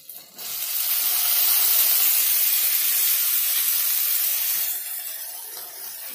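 Chopped green beans dropped into hot ghee in a stainless-steel kadai, sizzling. The sizzle swells up about half a second in, stays loud for about four seconds, then settles to a quieter steady frying.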